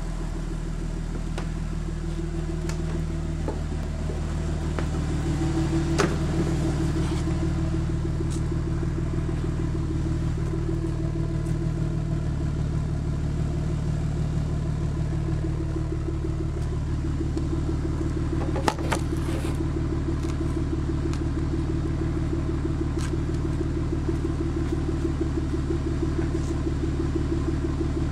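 Toyota Aristo's 2JZ-GTE twin-turbo straight-six idling steadily through a dual exhaust, with a sharp click about six seconds in and another near nineteen seconds.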